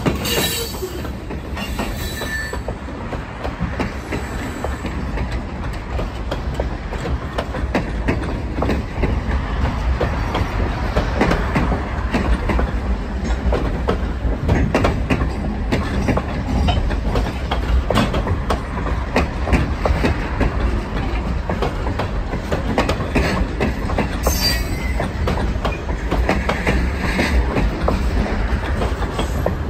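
Freight train gondola cars rolling past at close range: a steady rumble of steel wheels on rail with repeated clicks and clanks over the rail joints. High-pitched wheel squeals come in briefly near the start and again about 24 seconds in.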